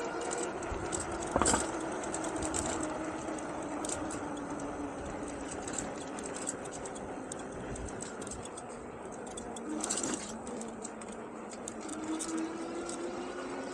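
Engwe Engine Pro e-bike's 750 W hub motor whining under way, its pitch sinking slowly as the bike slows and climbing again near the end, over wind and tyre noise. A brief knock sounds about a second and a half in, and another near ten seconds.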